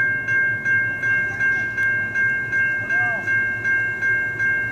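Railroad grade-crossing bell ringing steadily at about three strikes a second, over the low rumble of a train.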